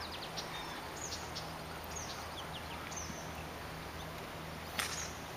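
Small birds chirping in short falling calls about once a second, over faint steady outdoor background noise and a low hum. A brief rustle stands out near the end.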